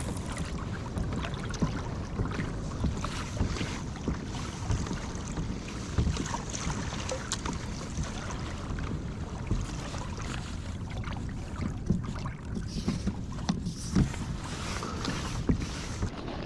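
Water splashing and lapping against a kayak hull as it moves along, with scattered light knocks and wind buffeting the microphone.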